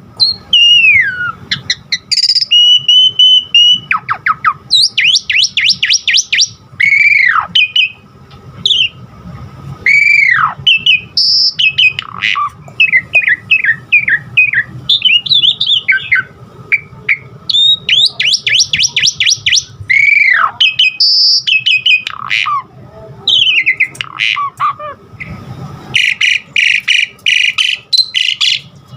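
Asian pied myna (jalak suren) singing a long, varied song: loud clear whistles, downward-sliding notes and bursts of rapid chattering trills, changing phrase every second or two.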